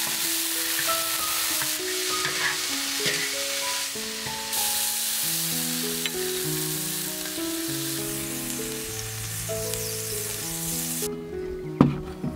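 Bean sprouts sizzling as they are stir-fried in a hot wok, a steady frying hiss that stops about eleven seconds in, over background music with a slow melody. Two sharp knocks follow near the end.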